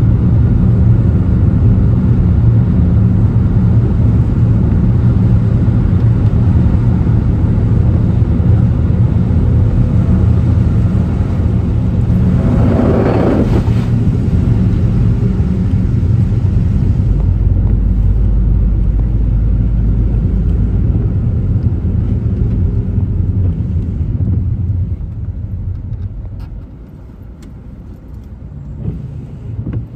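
Car on the move: a steady low rumble of engine and road noise, with a swell of noise about 13 seconds in. The rumble falls away to a much quieter hum from about 25 seconds.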